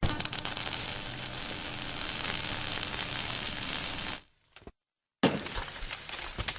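DoALL horizontal band saw running, a steady hissing machine noise with a faint low hum and some crackle. It cuts out for about a second just past four seconds in, then resumes.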